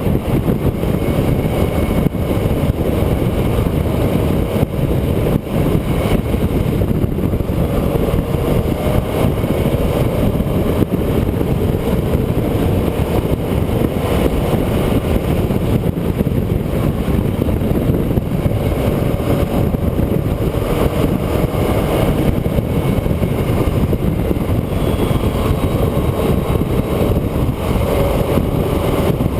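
A vehicle driving along a winding road: steady engine and road noise, with the engine note rising and falling a little.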